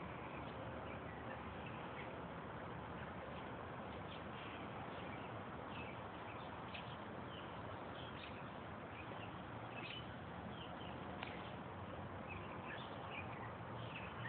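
Small birds chirping in short, scattered calls over steady outdoor background noise.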